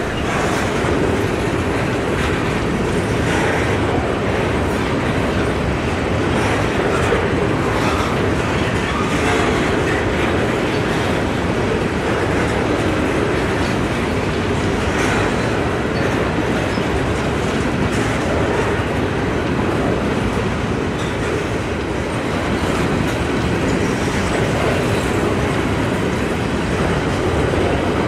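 Freight train of covered hopper cars rolling steadily past, with steel wheels running over the rails and clicking at the rail joints.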